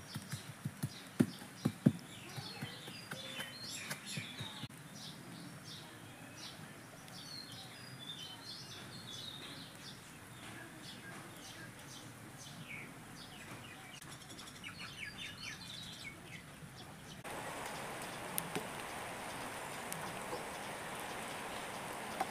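Small birds chirping and singing, with a few sharp knocks in the first two seconds. About three-quarters of the way through, the chirps mostly give way to a steady rushing background noise.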